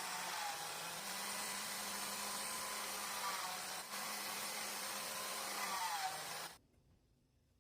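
A small electric motor running steadily with a rushing air noise and a low hum, then cut off abruptly about six and a half seconds in.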